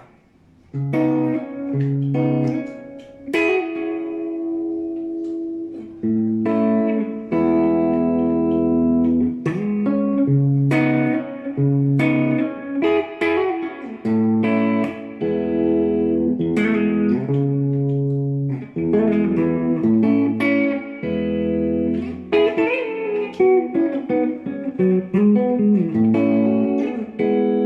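Electric guitar played clean through a Line 6 HX Stomp's Matchless amp simulation: struck chords and single notes that ring out and sustain, with only a subtle effect on them.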